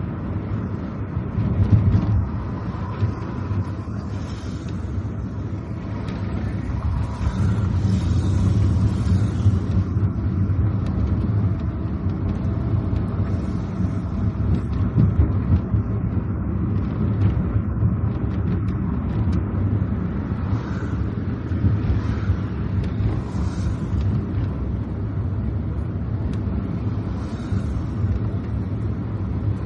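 Car driving on a wet road: a steady low rumble of engine and tyres, with brief swells of higher hiss every few seconds.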